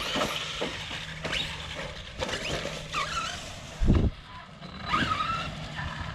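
Arrma RC truck's brushless electric motor whining as it is throttled in short bursts, the pitch climbing and dropping again several times. A low thump about four seconds in.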